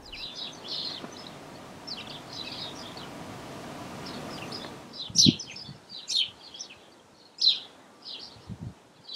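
Small birds chirping repeatedly in short high calls, over a steady hiss that stops about halfway through, with a few low thuds in the second half.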